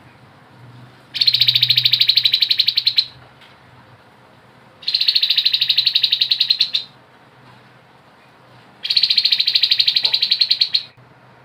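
Grey-headed babbler singing three rapid buzzing trills ("ngebren"), each about two seconds long, with gaps of about two seconds between them.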